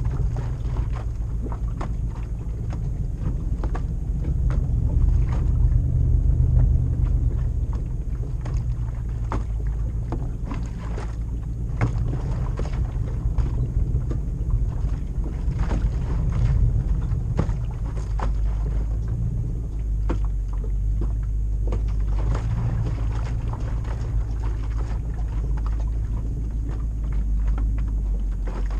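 Toyota LandCruiser 100 Series 4.7-litre 2UZ-FE V8 running through a full exhaust while driving: a low, steady rumble that swells a little about five to seven seconds in, with scattered short knocks and rattles.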